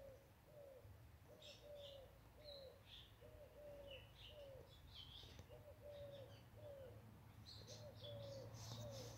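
Faint bird calls: a low cooing note repeated about twice a second, with higher chirps from other birds scattered over it.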